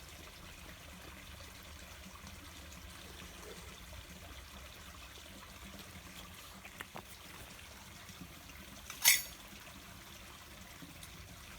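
Water trickling steadily, with a few faint clicks and one short, sharp, louder knock about nine seconds in.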